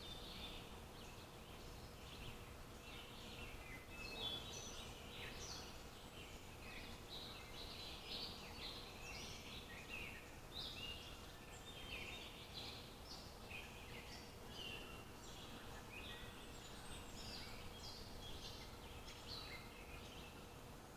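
Several small birds chirping and twittering continuously, many short overlapping calls, over a low steady background hiss with a faint hum.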